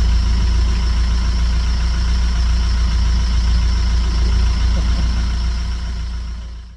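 A vehicle engine idling with a steady low rumble, fading out at the end.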